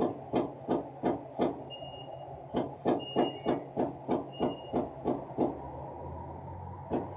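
Industrial machinery pounding rhythmically, about three heavy thumps a second over a steady low hum, with two short pauses before the pounding resumes. A few brief high beeps or chirps sound about a third of the way in.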